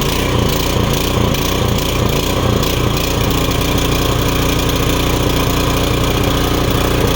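Westinghouse WPX3200 gas pressure washer's small engine running, freshly started, while its pump fails to build pressure. It runs with an uneven pulsing beat for the first few seconds, then settles steadier.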